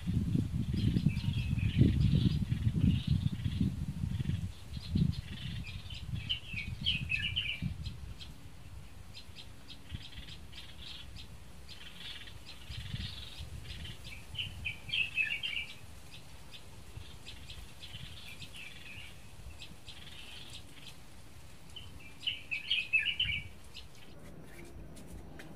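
A small bird calling repeatedly, short chirping phrases every two to three seconds. A louder low rumble sits under it for the first four or five seconds.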